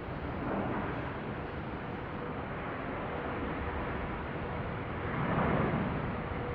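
Jet airliner noise at the airport: a steady rush with a faint steady whine coming in about two seconds in, and two swelling whooshes, the louder one near the end.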